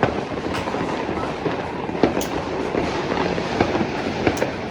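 Dense, continuous crackle and rumble of many firecrackers and fireworks going off at once, with several sharper, louder bangs standing out at irregular moments.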